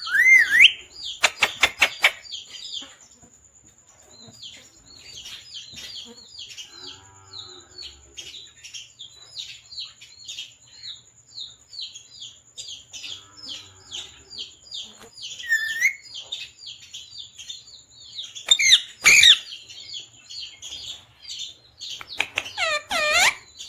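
Pet parrot chirping over and over in short high notes, with a few louder, drawn-out calls near the end. A few sharp clicks sound in the first two seconds.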